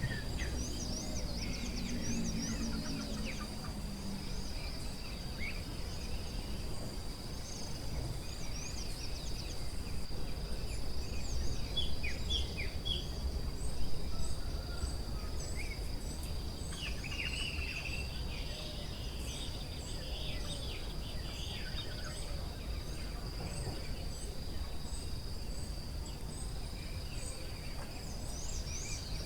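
Forest ambience: a steady high insect drone, with several birds chirping and calling over it. In the second half one bird repeats a short high chirp about once a second, over a low background rumble.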